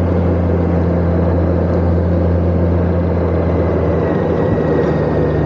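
Motorcycle engine running steadily under way, with wind and road noise; its pitch drops slightly about four seconds in as it eases off.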